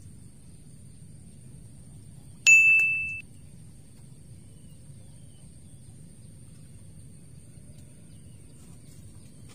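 A single bright ding, a pitched bell-like tone that strikes sharply about two and a half seconds in, fades for under a second and cuts off abruptly: an alert sound effect laid in to flag a bite on one of the rods. A steady low background noise runs underneath.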